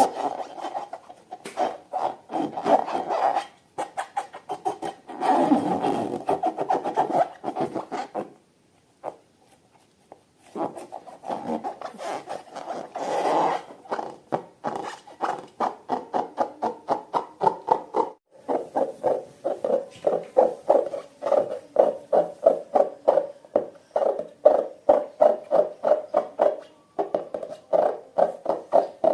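Slime being worked by hand: rhythmic sticky squishing and rubbing strokes. They come in clusters at first, pause briefly about a third of the way in, then settle into a steady two to three strokes a second.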